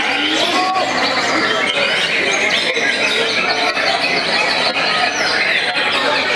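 Several white-rumped shamas singing at once: a dense chorus of overlapping chirps, whistles and trills.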